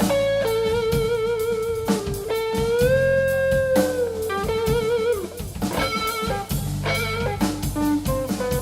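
Live band instrumental break: a lead guitar solo with wavering vibrato, a long note bent up about two and a half seconds in, held, then let down, over drums and bass.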